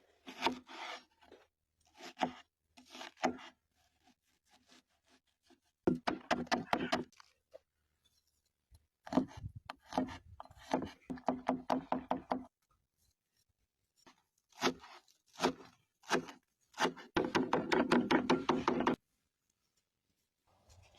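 A knife chopping quickly on a wooden cutting board, in several runs of rapid strokes with short pauses between them; the longest, densest run comes near the end.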